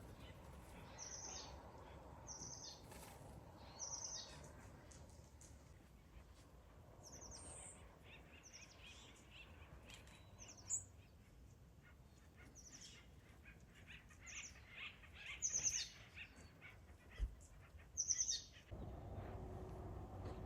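Wild birds chirping: short, high calls repeat every second or two over faint background noise. A steady low noise comes in near the end.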